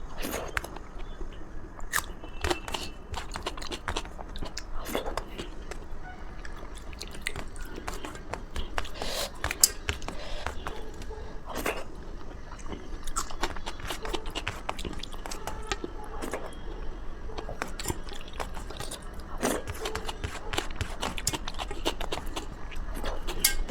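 A person eating close to the microphone: steady chewing with many wet mouth clicks and lip smacks.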